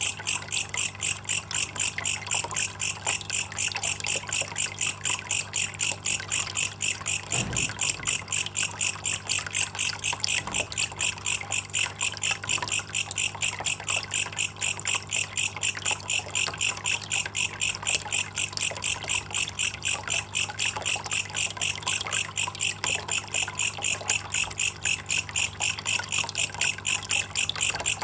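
Belalang kecek katydid calling in a fast, even pulsing chirp, about five pulses a second, over trickling water and a low steady hum.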